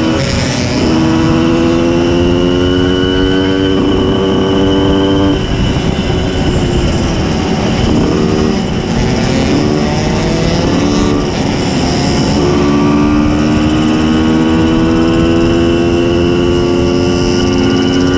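Simson S51 moped's tuned 90 cc reed-valve two-stroke engine running hard. Its note holds and slowly rises, breaks up around five seconds in, then climbs steadily from about twelve seconds in as it accelerates.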